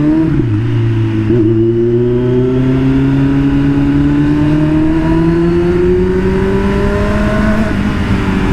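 Kawasaki superbike engine through a new aftermarket exhaust, accelerating under way: the pitch drops with an upshift just after the start, then rises steadily through the gear for about seven seconds and levels off near the end.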